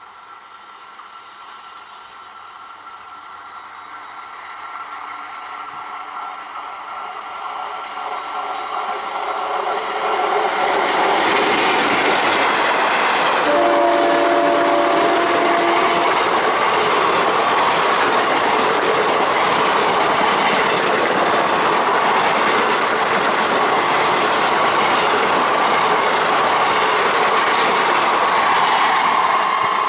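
An Indian Railways express train drawing nearer, its sound swelling over about ten seconds, then its coaches rushing past close by with a steady rattle of wheels over the rail joints. A two-tone train horn sounds for about two seconds midway.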